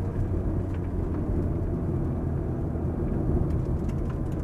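Ferrari F430's V8 engine running at a steady speed, heard inside the cabin together with tyre and road noise.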